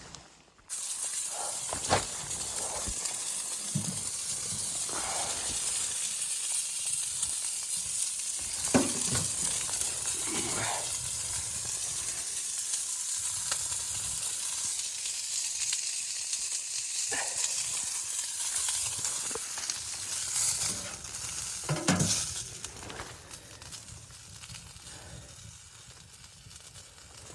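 A steady, high sizzling hiss, dotted with short knocks and clicks. It starts just under a second in and drops away about 23 seconds in.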